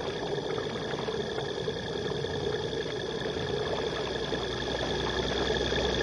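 Steady mechanical drone, engine-like, with a few constant tones over a noisy hum, growing slightly louder.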